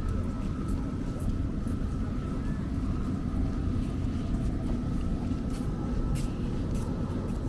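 Steady low rumble of street traffic, with a thin steady high tone and scattered light clicks.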